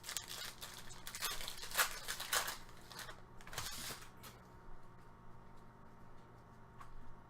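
Trading cards and their packaging handled: a run of short scratchy rustles and slides in the first four seconds, then only faint handling.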